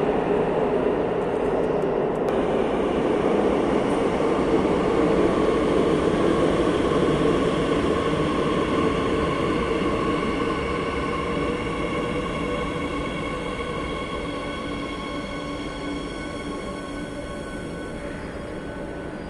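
Madrid Metro Line 8 train running: a loud rumble of the moving train with a whine of several steady tones, the whole growing gradually quieter over the second half.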